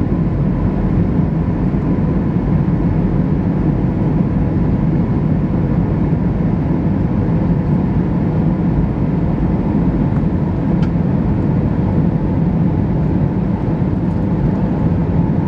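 Steady cabin noise inside an Airbus A320-214 airliner on descent: the CFM56 turbofans and the airflow over the fuselage give an even low rumble and hiss, with a faint steady hum.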